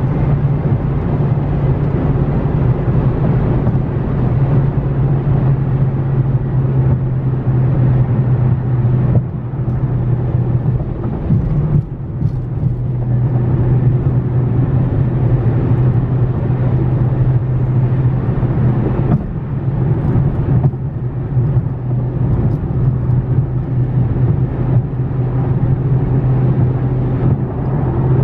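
Dodge Charger Scat Pack's 392 (6.4-litre) Hemi V8 droning steadily at cruising speed, with road and tyre noise; the engine note eases off briefly a few times.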